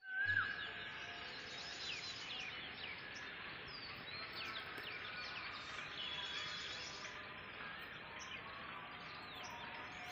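Several small birds chirping and calling in the trees: many short, quick notes sliding downward, overlapping at different pitches.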